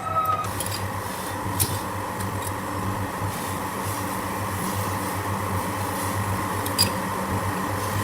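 A machine running with a steady hum, with a few light clicks.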